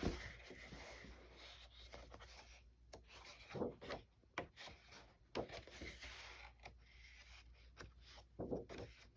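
Faint rustling and soft scraping of paper: the pages of a vintage paper doll book being turned and handled, with a few short, sharper rustles.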